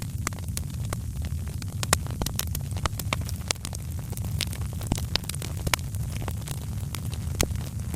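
Wood fire crackling in a fireplace: irregular sharp crackles scattered over a steady low rumble.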